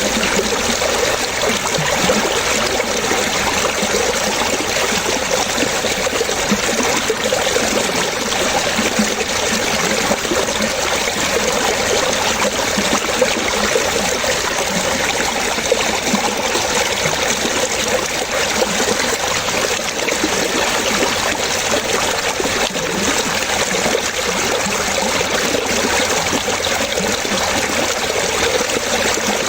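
Running water trickling and splashing steadily, with no breaks or changes.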